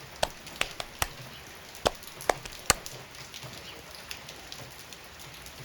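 Large raindrops hitting a hard surface one at a time: several sharp, irregular taps in the first three seconds, then fainter, closer-spaced ticks over a soft hiss as light rain sets in.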